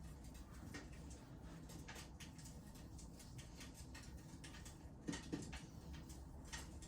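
Wood fire in a fireplace crackling softly: scattered small pops and clicks, with two louder pops about five seconds in.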